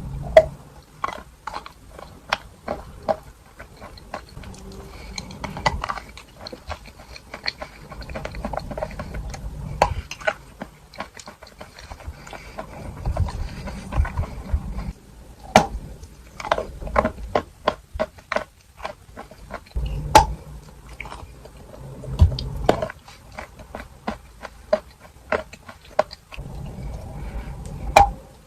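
Chalk being bitten and chewed close to the microphone: irregular sharp crunches and crackles, with softer wet chewing in between, the chalk eaten with a creamy paste.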